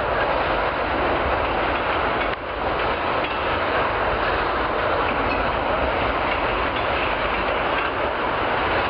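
Freight train of tank cars rolling past, with a steady rumble of steel wheels on the rails and faint clicks at the rail joints.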